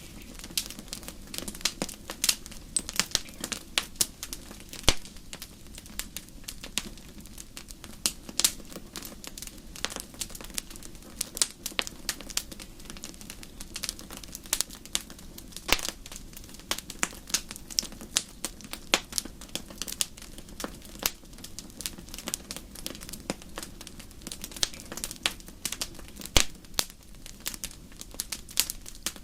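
Campfire crackling: irregular sharp pops and snaps, many each second, over a steady low background.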